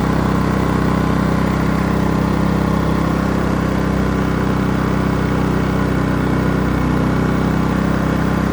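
Portable 3200-starting-watt generator engine running steadily in regular mode (eco mode off), not yet under load.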